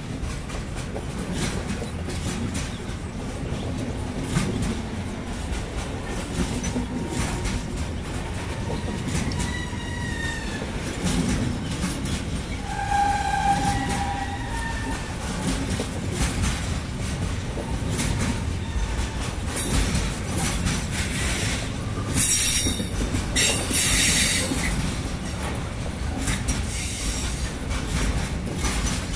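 Intermodal freight wagons carrying semi-trailers rolling past, with a steady low rumble and the clickety-clack of wheels over rail joints. The wheels squeal thinly for a few seconds in the middle, and there is a louder burst of high hiss near the end.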